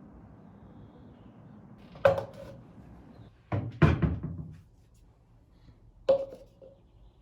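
A few sharp knocks and thuds of things being handled: one about two seconds in, a longer, heavier clatter near four seconds, and another about six seconds in, over a faint steady hiss at the start.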